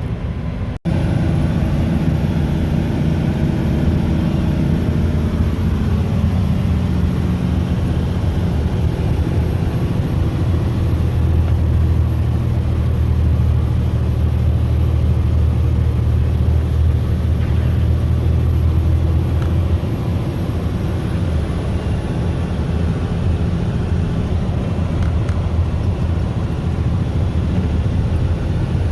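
Mack snowplow truck's diesel engine running, heard from inside the cab as a steady low drone. The drone swells about ten seconds in and eases back around twenty seconds, and the sound cuts out briefly less than a second in.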